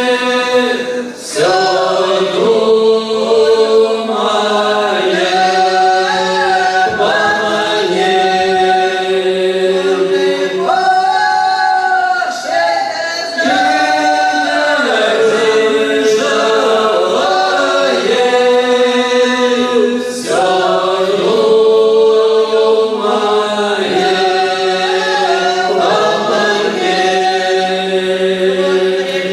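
A village folk ensemble singing a folk song a cappella, several voices in harmony holding long drawn-out notes with no instruments.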